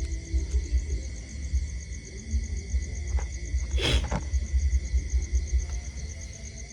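Insects trilling steadily, a fast, even, high-pitched pulsing, over a low rumble, with a brief rushing sound about four seconds in.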